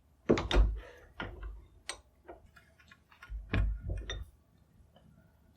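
Workshop handling sounds: an irregular series of knocks and clicks as tools and the wooden stock are handled on a bench, with two heavier thuds, one near the start and one about three and a half seconds in.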